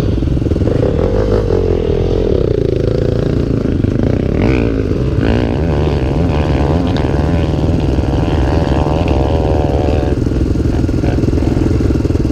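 Trail motorcycle engine running under throttle, its pitch rising and falling as the revs change, most busily from about five to ten seconds in.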